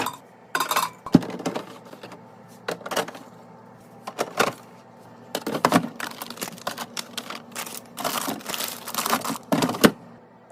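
Food packaging and containers being handled and set in place while restocking a fridge: irregular clicks and taps with longer stretches of rustling, stopping shortly before the end.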